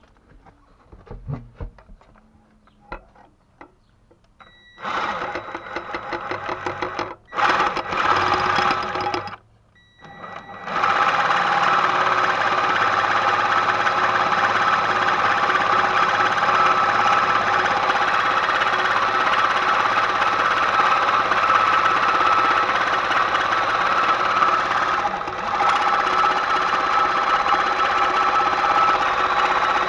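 Electric power tool running in two short bursts, then steadily for about nineteen seconds before it stops, preceded by a few light knocks of handling.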